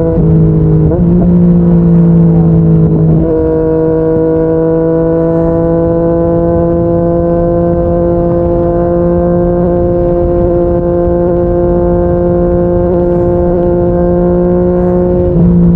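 Yamaha MT-09's inline-three engine, breathing through a Yoshimura R55 slip-on exhaust, running under steady throttle at expressway speed, its pitch creeping slowly upward. It is louder for the first few seconds, with a brief rise in pitch about a second in, and louder again near the end. Wind rumbles underneath.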